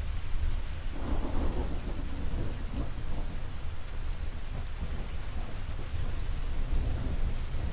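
Steady rain with a low rumble of thunder that swells about a second in and fades over the next few seconds.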